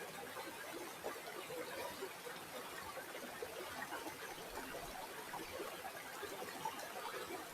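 Shallow river water flowing and trickling over stones, a steady burble of many small splashes and gurgles.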